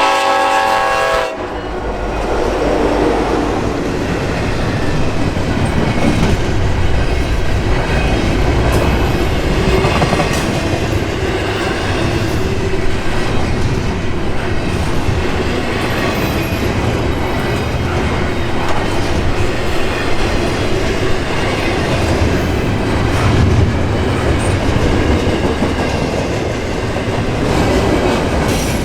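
Locomotive air horn sounding a chord that cuts off about a second in. It gives way to a long intermodal container train rolling past at speed: a steady rumble with wheels clattering over rail joints.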